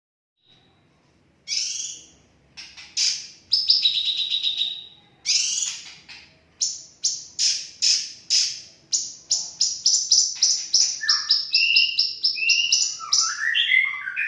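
Cucak kinoi songbird singing loudly: sharp chirps and a brief buzzy trill, then a long run of rapid repeated notes, with sliding whistled notes near the end.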